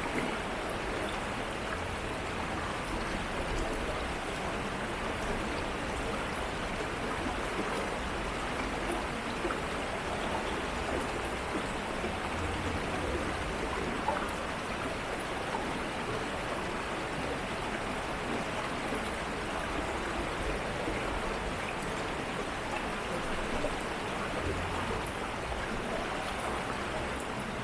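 Shallow urban stream flowing steadily, a constant rush and babble of water with a faint low rumble underneath at times.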